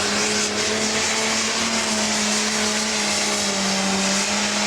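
Pro stock pulling tractor's turbocharged diesel engine running at a steady pitch, dipping slightly near the end.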